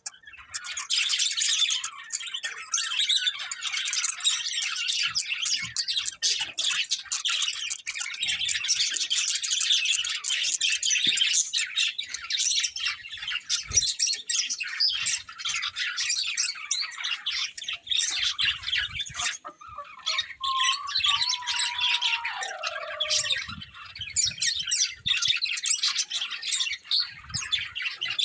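Budgerigars chirping and chattering in a continuous, rapid stream of high chirps and squawks, with a lower falling note about two-thirds of the way through.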